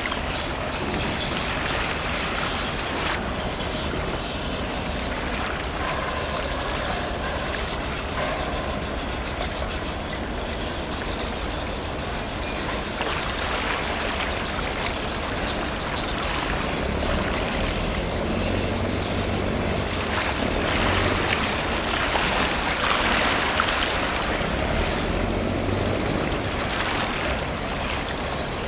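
Steady mechanical rumble over a rushing, water-like noise, with a low engine hum growing stronger for several seconds in the second half.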